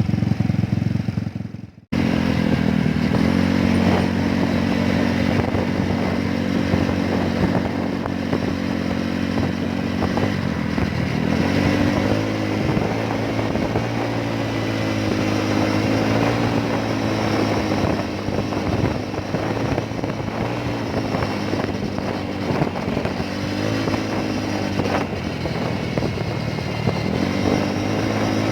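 Motorcycle engine running under way, its note stepping up and down several times with changes in throttle and speed, over steady road and wind noise. The sound cuts out briefly about two seconds in.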